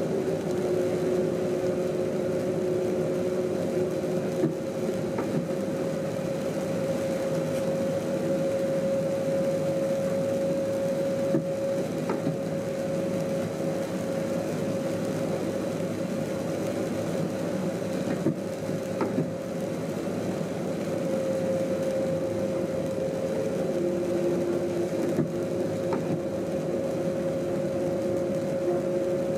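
Train running, heard from inside the driver's cab: a steady rumble of running gear with two steady humming tones, one fading out midway and coming back near the end, and a few faint clicks.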